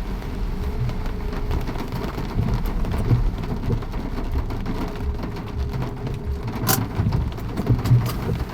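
Rain falling, a steady patter of many drops over a low rumble, with one sharp tap about two-thirds of the way through.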